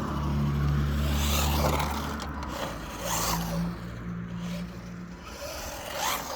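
WLtoys 144001 RC car driving on the road: several short bursts of tyre scrape and rush, over a steady low hum that fades after about five seconds.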